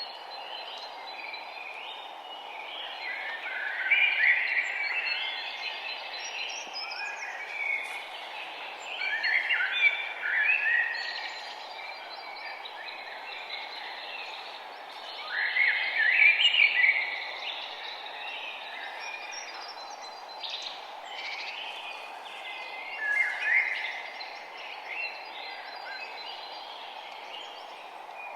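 Songbirds singing in phrases of chirps and trills over a steady background hiss, with the loudest bursts of song coming every few seconds.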